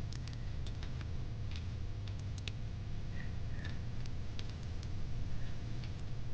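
Fire pit crackling: irregular sharp pops and snaps over a steady low rumble.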